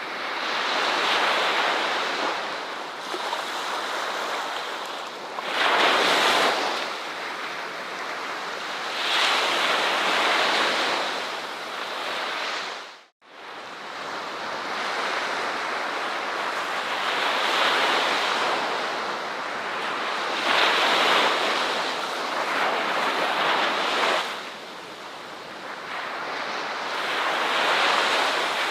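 Ocean waves washing onto a shore, each surge swelling and fading every few seconds. The sound cuts out for a moment about halfway through, then the waves resume.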